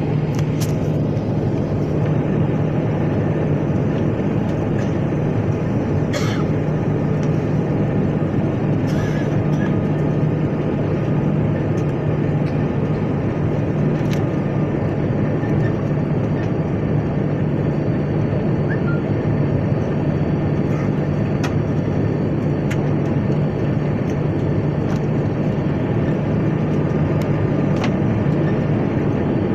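Airliner cabin noise in flight on approach: a steady rush of engines and airflow with a low, constant hum and a few faint clicks.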